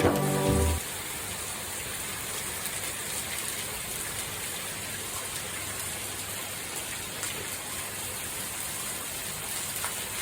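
Steady rain falling: an even hiss with faint scattered drop ticks. A music track plays over it for the first second and then stops.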